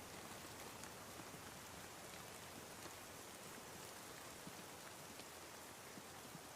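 Steady, faint rain falling, with scattered individual drop ticks over an even hiss.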